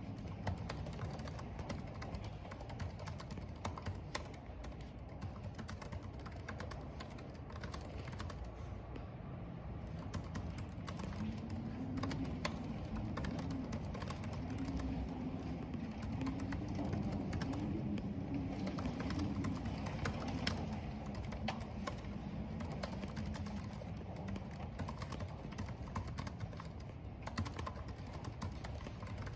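Computer keyboard typing, a steady run of irregular key clicks, over a constant hiss of rain and wind. From about a third of the way in to near the end, a low wavering howl of wind rises and falls beneath the typing.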